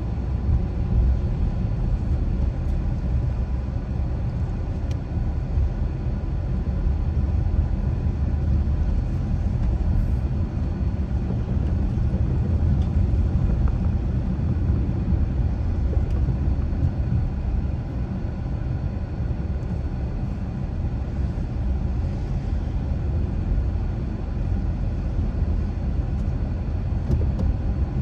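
A car driving at a steady pace: continuous low road and engine rumble with no sudden changes.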